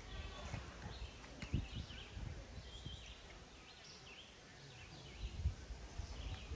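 Small birds chirping now and then over a low, uneven rumble with a few soft knocks.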